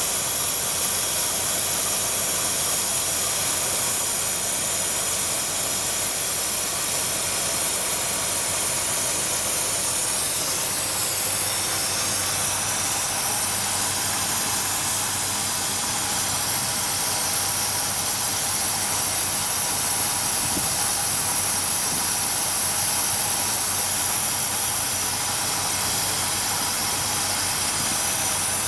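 Car engine fitted with a GEET fuel processor idling steadily, heard as an even hiss over a faint low hum.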